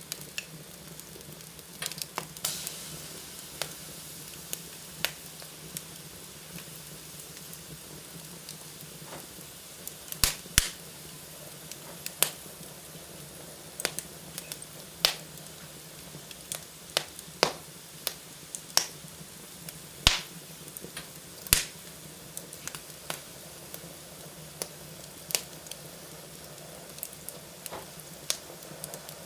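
Wood fire burning in a fireplace, crackling and popping: a steady low hiss broken by irregular sharp snaps, several of them loud.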